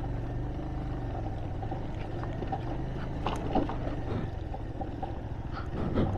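Motorcycle engine running steadily while riding, a constant low hum with road and wind noise on the microphone.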